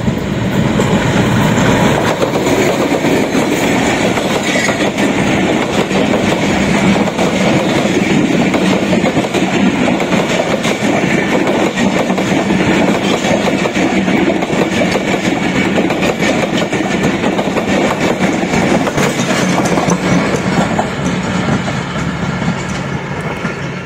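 Passenger express train hauled by a diesel locomotive passing close by at speed, its wheels clattering steadily over the track. The noise falls away about two seconds before the end as the last coach goes by.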